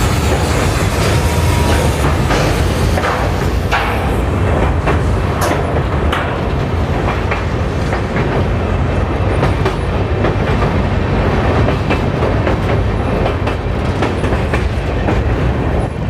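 Passenger train running at speed: a steady rumble of wheels on rail with rushing air, and clickety-clack as the wheels cross rail joints.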